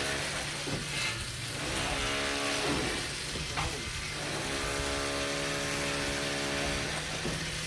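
An engine running steadily, a low even hum over a constant hiss, briefly breaking up a few times.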